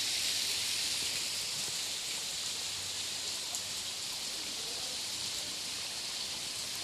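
Steady rush of water from a small waterfall and stream running over bedrock.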